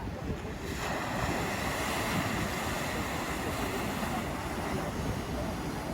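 Ocean surf washing onto the rocks: a broad hiss that comes in sharply just under a second in and slowly eases off, over a steady low rumble of wind on the microphone.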